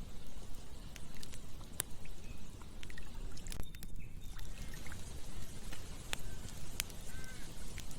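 Campfire crackling, with sharp pops every second or so over a low steady rumble.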